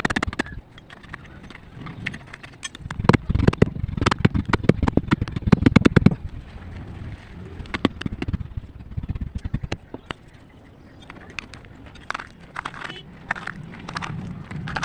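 Close-miked ASMR crunching: a dense run of crackling, crunching clicks, heaviest a few seconds in, then thinning to scattered crackles.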